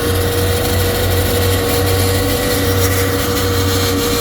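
Vehicle engine held at steady high revs during a burnout, one driven tire spinning on the wet pad. A loud, constant drone with an even pitch that neither rises nor falls.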